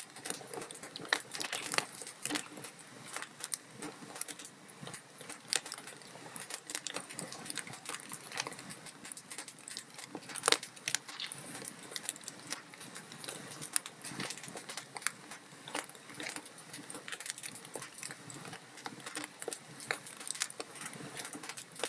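Wood fire crackling in a fireplace: a steady scatter of small pops and snaps from the burning logs, with one louder pop about ten and a half seconds in.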